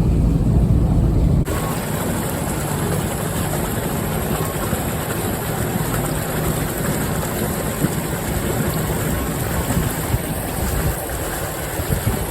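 Can-Am side-by-side engine running with a low rumble, cut off suddenly about a second and a half in by a steady rushing noise of fast-flowing floodwater.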